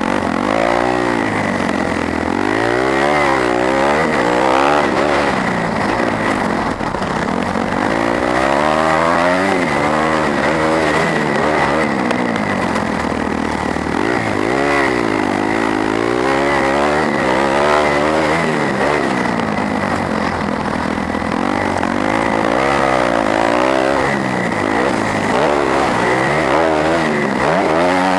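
A 250cc four-stroke motocross bike's engine, heard from on board while racing. Its revs climb and drop again and again every couple of seconds as the throttle is worked and the gears shift.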